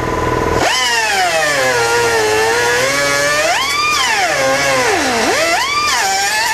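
Power grinder working on welded steel. Its motor whine sags in pitch under load and climbs back as the pressure eases, several times, over a hiss of abrasive on metal that starts about half a second in.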